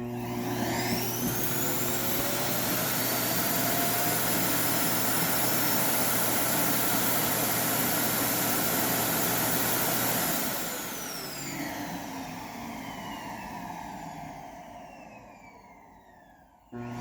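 Roomba's self-emptying dock evacuating the robot's dust bin into its bag: the suction motor starts abruptly with a rising whine and runs loudly for about ten seconds. It then shuts off and spins down with a falling whine, fading away.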